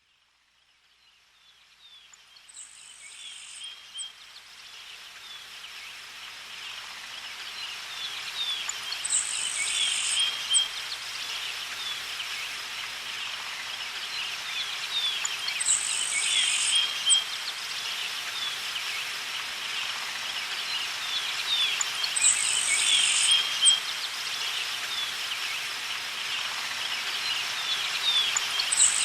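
Outdoor nature ambience of many small birds chirping, with a high, buzzy insect-like trill about a second long that comes back at even intervals of roughly six and a half seconds. It fades in from silence over the first few seconds.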